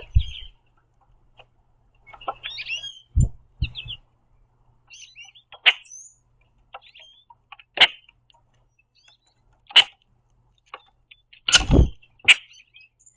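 Common grackles calling at a feeder: short harsh chack notes about every one to two seconds, with a few squeaky chirps between them. Two sharper knocks, about three seconds in and near the end, stand out among the calls.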